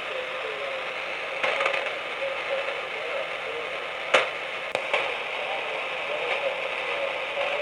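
Amateur HF transceiver receiving a band with no station transmitting: steady band-noise hiss, with sharp static crashes about a second and a half in and around four to five seconds in.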